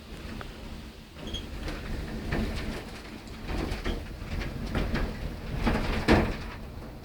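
Wind rumbling on the microphone, with a run of short knocks and rattles, the loudest about six seconds in.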